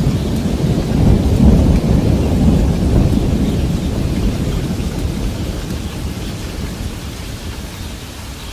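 Steady rainfall with a low rolling rumble of thunder that swells about a second in and slowly dies away over the following seconds.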